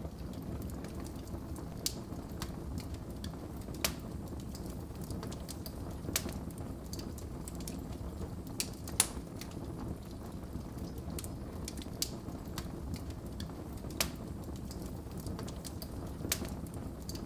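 Wood fire crackling in a fireplace: a steady low rush of burning logs with sharp pops about every two seconds, the loudest about nine seconds in.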